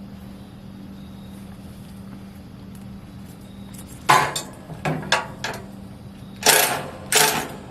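A steady low hum, then, about four seconds in, a run of six short, loud clatters and rustles as grill assembly parts are handled.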